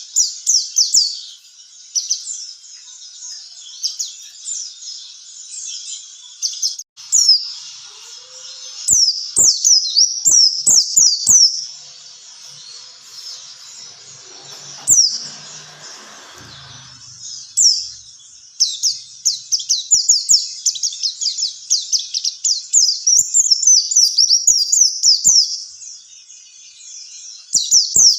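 White-eye (pleci) song: fast runs of high, thin, falling chirps in bursts with short pauses between. A few sharp clicks come in the middle.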